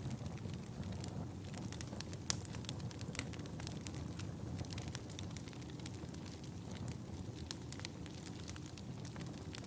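Wood fire burning in a fireplace: a steady low rumble of the flames with irregular sharp crackles and pops, one louder pop about two seconds in.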